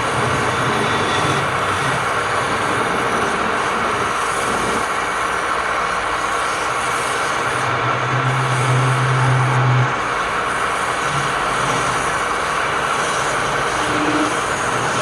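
Wood lathe running steadily while a tool or abrasive works the spinning wood. A deeper hum swells for about two seconds just past the middle.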